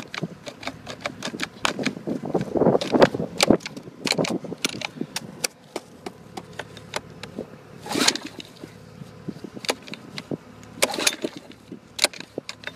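Repeated pull-start attempts on a cold Honda small engine on a wood splitter, choked after sitting in snow all winter. The recoil cord is yanked and the engine turns over without catching, with clicks and knocks between pulls. The strongest pulls come about three, eight and eleven seconds in.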